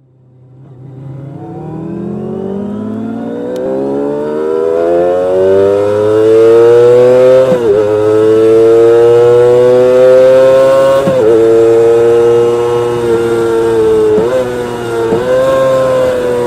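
Kawasaki Ninja ZX-25R's 249 cc inline-four engine building from low to very high revs over about six seconds and growing loud. It then holds at a high-pitched wail, with several brief dips and recoveries in pitch.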